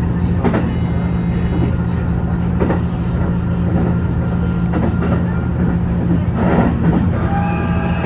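Hybrid diesel train (JR HB-E210 series) running, heard from inside: a steady low hum, with a few irregular wheel clacks over rail joints. A high steady tone comes in near the end.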